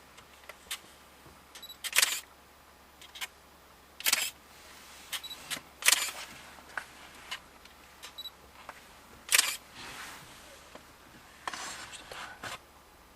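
Camera handling noise: irregular sharp clicks and short knocks, about five louder ones and several fainter ones, over a faint steady hiss.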